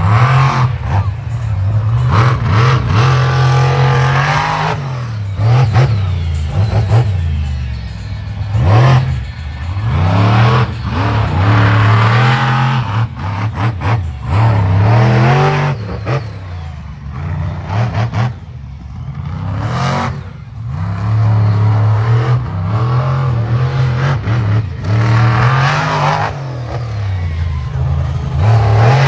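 Monster truck engine revving hard again and again, its pitch climbing and falling every couple of seconds, with short sharp bangs in between.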